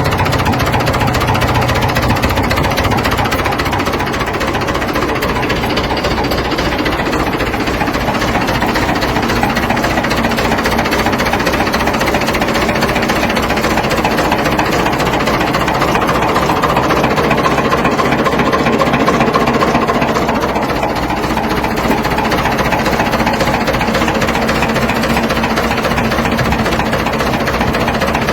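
New Holland 6610 tractor's diesel engine running steadily.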